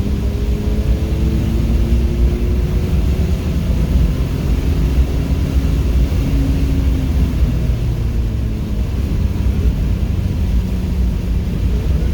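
Car engine heard from inside the car on a wet race track, with steady low road and tyre rumble. Its pitch climbs slowly, then drops back, several times as the driver works the throttle and gears.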